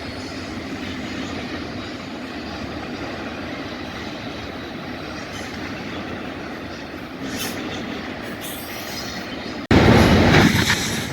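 Freight train rolling past, a steady rumble of railcars on the rails with faint flashes of wheel squeal. Near the end the sound jumps suddenly to a much louder, deeper rumble.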